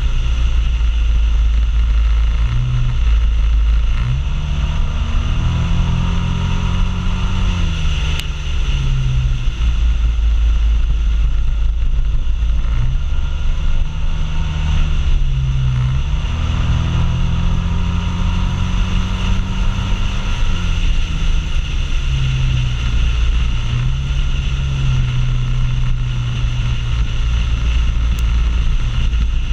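Suzuki Burgman 650 maxi-scooter riding at road speed, heard from its own seat: a steady engine note that rises and falls a few times as speed changes, over heavy wind rumble on the microphone.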